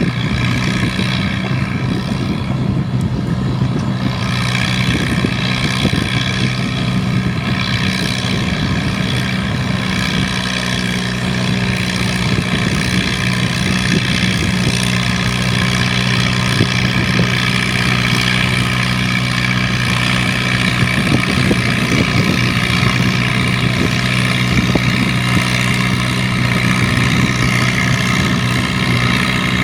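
A pulling tractor's engine runs hard and steady under load while dragging the weight sled down the pull track. Its sound grows harsher about four seconds in.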